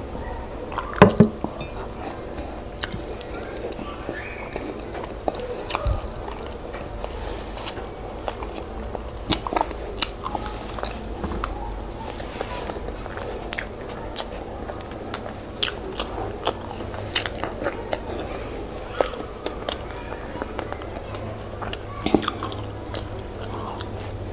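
Close-miked mukbang eating sounds: a person chewing and biting boiled yam with owo stew, many short, irregular wet mouth clicks.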